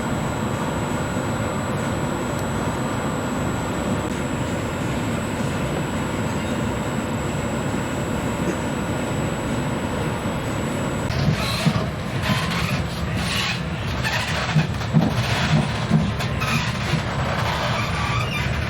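Steady running noise of a regional passenger train heard from inside the carriage, with a thin high whine. About eleven seconds in, the whine stops and irregular knocks and rattles begin, the clatter of the carriage over the track.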